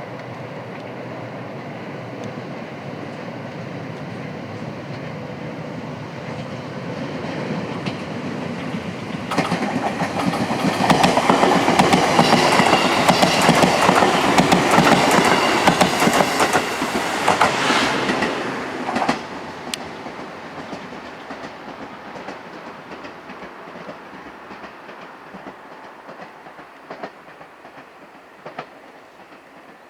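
A JR-West 223 series electric multiple unit approaching, passing close by and receding. The sound builds steadily, turns loud with rapid clickety-clack of wheels over the rail joints from about a third of the way in, cuts down sharply just past the middle as the last car goes by, then fades into the distance.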